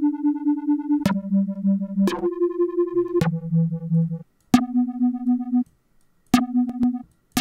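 Tone2 Icarus software synthesizer playing single held notes in a low register, about one a second, each starting with a click. The volume pulses rapidly, about six times a second, from a ducking effect.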